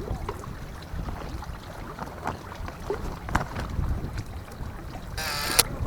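Strong wind buffeting the microphone as a steady low rumble, with scattered light knocks. Near the end comes a brief, harsh, high-pitched sound lasting about half a second.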